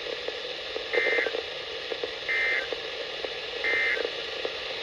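NOAA Weather Radio broadcast hiss with three short, identical warbling data bursts about 1.3 seconds apart: the SAME end-of-message codes that close the warning.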